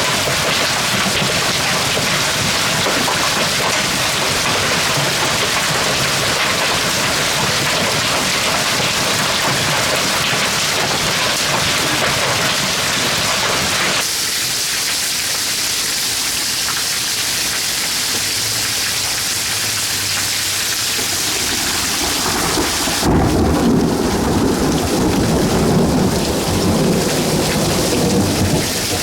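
Hail and heavy rain pelting down in a dense, steady hiss. The sound changes abruptly about halfway through, and near the end a loud low rumble of thunder comes in.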